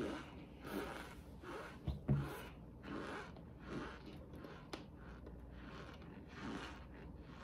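Cornstarch being chewed in the mouth: a faint, steady series of squeaky, crunchy chews, about one every three-quarters of a second, with a single low thump about two seconds in.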